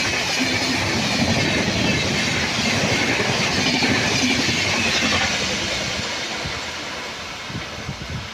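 Train passing at high speed, the running noise of its wheels on the rails loud for about five seconds, then fading as it moves away, with a few low thumps near the end.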